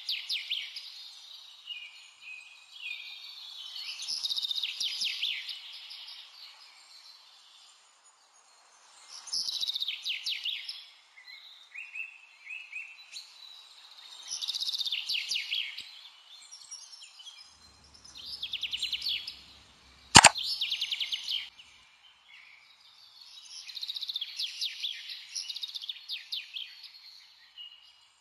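Small songbird singing in short, fast-trilling phrases that recur every few seconds over a faint steady hiss, with one sharp click about twenty seconds in.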